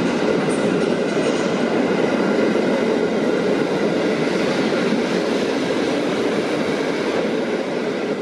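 Passenger train running: the steady rolling noise of its wheels on the rails.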